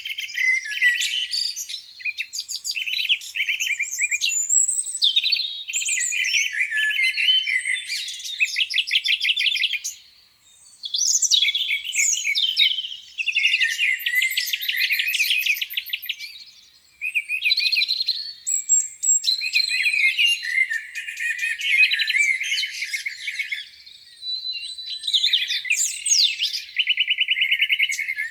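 Several songbirds singing at once, their chirps, rapid trills and warbles overlapping almost without a break. The song drops away for two short lulls, about ten and seventeen seconds in.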